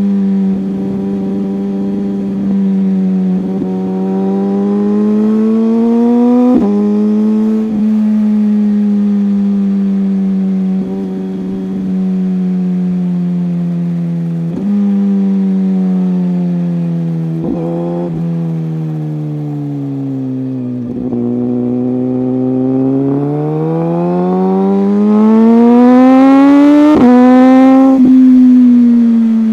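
A superbike's engine running under way, its pitch rising and falling with the throttle and stepping sharply at gear changes. Near the end the revs climb steadily for several seconds under acceleration.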